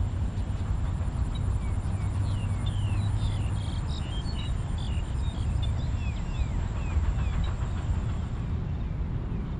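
Birds chirping with many short falling calls over a steady low rumble, and a thin steady high-pitched tone.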